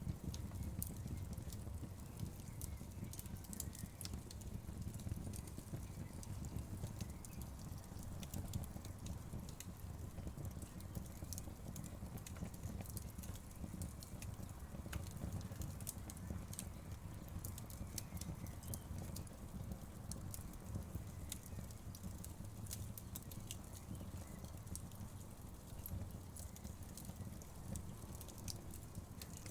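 Wood fire crackling: a steady low rumble with frequent small, sharp pops and snaps scattered throughout.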